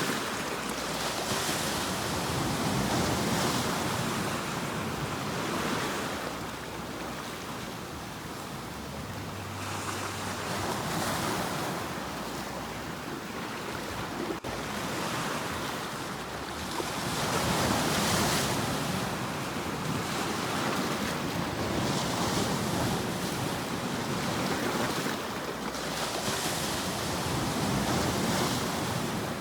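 Sea waves breaking on a shore, a steady wash of surf that swells and eases every few seconds as each wave comes in, with some wind.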